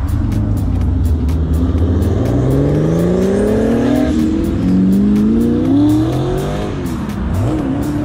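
Widebody Porsche 911's engine pulling away under hard acceleration. A low rumble at first, then the revs climb about two seconds in, drop at a gear change around four seconds, climb again, dip near the end and rise once more.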